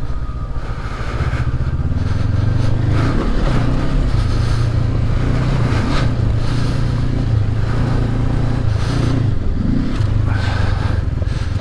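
Honda CB500X parallel-twin motorcycle engine running under load while riding off-road. The engine note dips briefly about three seconds in and again near ten seconds.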